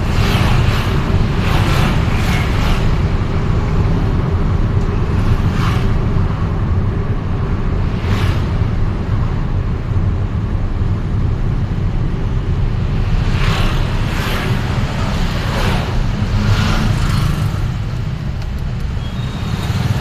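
Steady low road and engine rumble from a vehicle driving through city traffic, with other vehicles whooshing past every few seconds.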